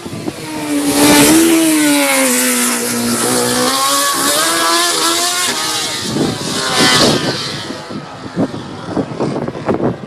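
A historic Formula One car's engine running hard past, with a high, raw note that rises and drops with the throttle and gear changes. It is loudest about a second in and dies away after about seven seconds.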